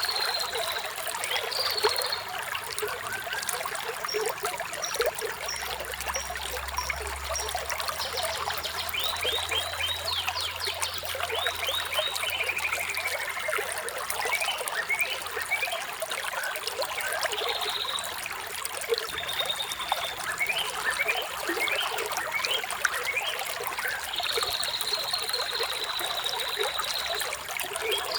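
Water trickling and splashing over stones in a small stream, with songbirds chirping and trilling throughout.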